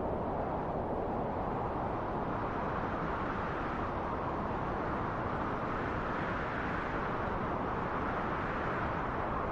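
Wind blowing in a steady rush, rising to a brighter, higher gust around the middle and easing back down near the end.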